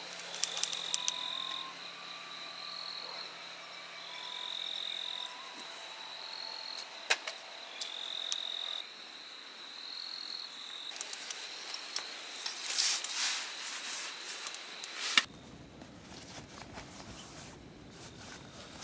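Insects calling in a forest: a repeated high trill, each about a second long, comes every second or two over a steady background, with scattered clicks. Near the end the sound cuts abruptly to a low rustling.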